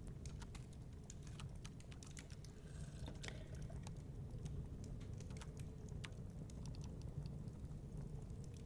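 Wood fire crackling in a fireplace: irregular sharp pops and snaps, a quick cluster of them about three seconds in, over a steady low rumble.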